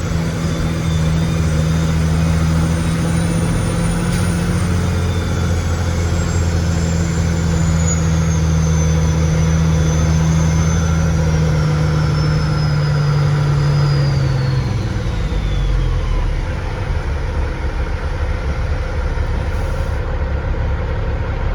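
Loaded log truck's diesel engine pulling steadily under load, its note dropping lower about fifteen seconds in. A faint high whine slowly falls in pitch over the first half.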